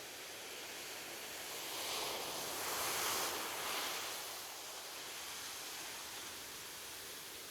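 Sea waves washing on a beach: a steady wash of surf, with one wave building about two seconds in, cresting in the middle and easing back.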